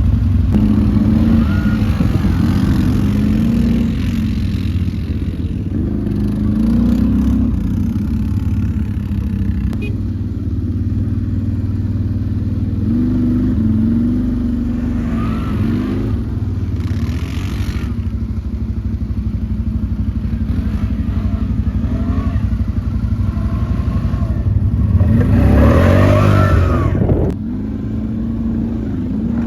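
ATV (quad bike) engine running under way, its pitch rising and falling as the throttle is worked, with the loudest rev-up about 25 seconds in.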